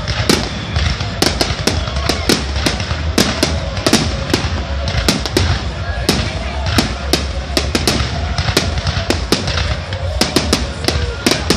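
Aerial fireworks going off in a rapid, irregular string of sharp bangs and cracks, several a second, over a steady low rumble.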